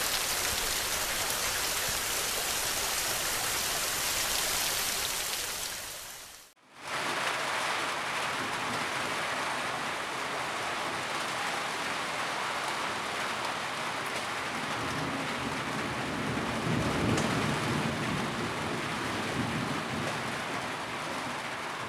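Heavy rain falling steadily, briefly fading out and back in about six seconds in. A low rumble of thunder comes in the second half.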